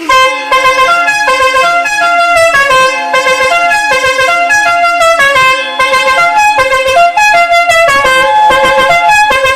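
Five-pipe musical air horn, fed by its electric air compressor, playing a continuous tune. Its loud, reedy notes step from pitch to pitch several times a second.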